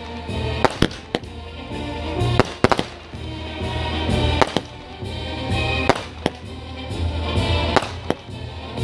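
Fireworks display: a dozen or so sharp bangs and cracks, some in quick clusters, over music playing throughout.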